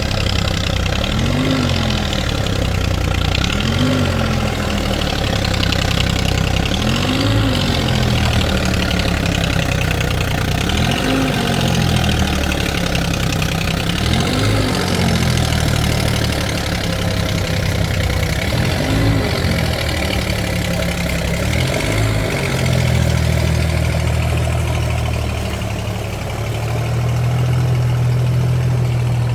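Deutz-Fahr tractor's diesel engine running, its pitch rising and falling again about every three to four seconds, then holding steady for the last several seconds.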